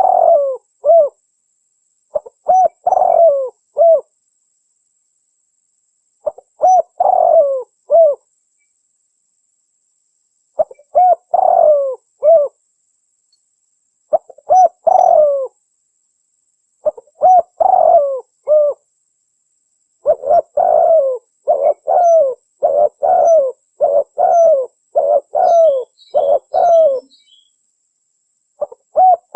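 Spotted dove (tekukur) cooing, a recording played as a lure for wild doves: a short phrase of a few coos repeated every three to four seconds, then from about two-thirds of the way in a faster run of about a dozen coos in quick succession. Faint high chirps from a small bird come near the end.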